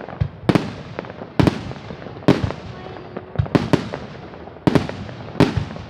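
Aerial fireworks shells bursting in a steady series, a sharp bang every half second to a second, each trailing off in a brief echo.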